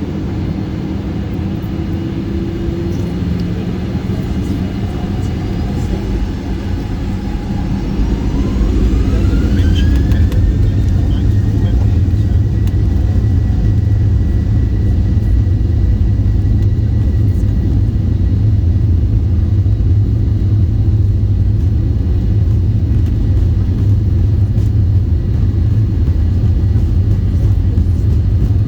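Boeing 737-800's CFM56 jet engines heard from inside the cabin, spooling up to takeoff thrust. About a third of the way in, a whine rises in pitch over a couple of seconds and then holds steady, over a loud low rumble that grows with it.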